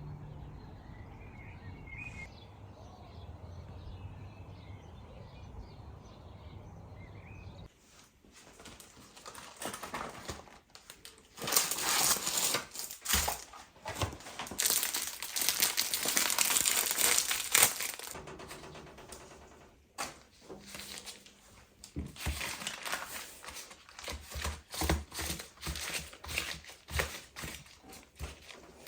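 Crinkling and rustling handling noises that start about eight seconds in, densest in the middle and again near the end. Before them there is a steady low hum.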